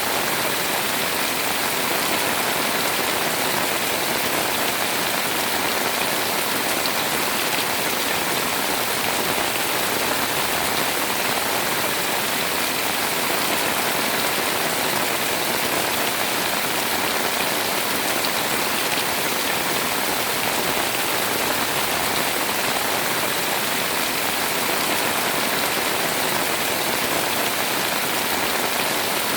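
Heavy rain pouring down on a house, a steady, even hiss of drops with no let-up.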